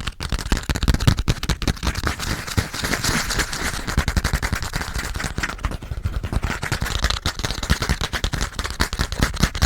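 Fast, aggressive tapping and scratching on a passport, close to a microphone at full sensitivity: a dense run of sharp taps with a stretch of scratchy rubbing a couple of seconds in.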